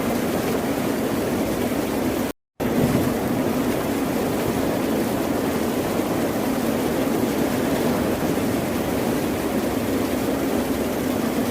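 Steady rushing noise of ocean surf. It cuts out to silence for a moment about two and a half seconds in.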